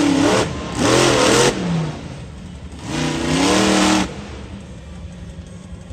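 Monster truck engine revved hard in three bursts, the pitch rising and falling with the throttle, then dropping back to a lower running sound for the last couple of seconds.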